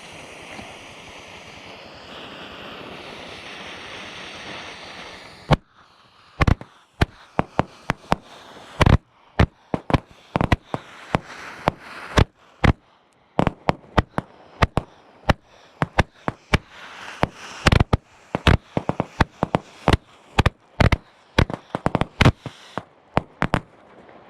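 Winda Pulse Pounder 50-shot cake firing its 'legal' salutes: after a few seconds of steady hiss, a rapid, irregular string of sharp bangs, several a second, runs for about eighteen seconds and stops just before the end. The reports are quieter than real flash salutes, some a poof, some a pop.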